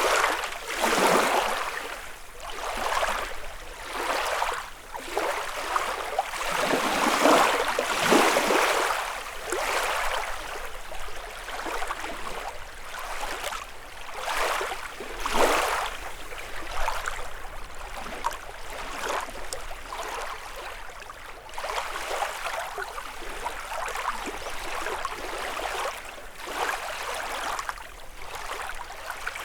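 Small lake waves lapping and washing on the shore in an irregular series, with larger splashes about a second in, around seven to eight seconds in and about halfway through.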